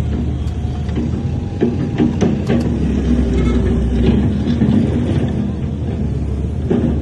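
Heavy earthmoving machinery with its engine running steadily, and a quick series of sharp metal clanks about two seconds in.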